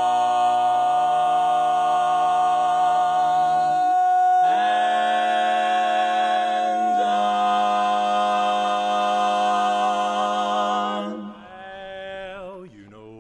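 A cappella vocal group holding long chords without words, the chord changing about four and a half seconds in and again about seven seconds in. The final chord stops about eleven seconds in, and quieter singing follows.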